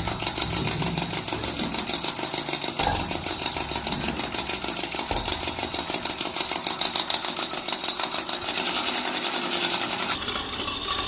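A small motor-driven mechanism running steadily with a fast, even clatter.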